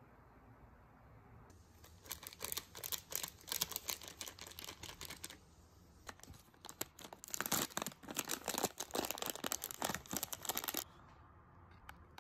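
Plastic ice cream bar wrapper crinkling and tearing as it is pulled open, in two long bouts of dense crackling, the first starting about a second and a half in and the second about six seconds in.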